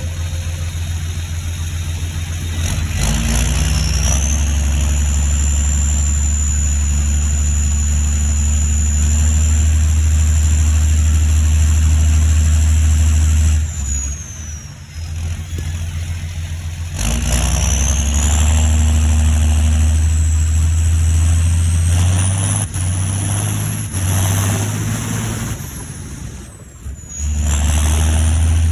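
John Deere 7530 Premium's six-cylinder turbo-diesel pulling under load, with a high turbocharger whistle that rises as it spools up, holds, and falls away when the engine eases off about halfway through. The engine then pulls again, and the whistle climbs higher before dropping near the end.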